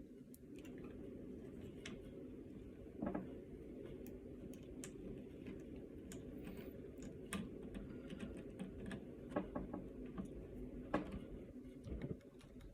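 Scattered light clicks and taps of screws and a hand tool working on the plastic extruder assembly of a 3D printer being taken apart, a couple of them a little louder about three seconds in and near the end, over a low steady hum.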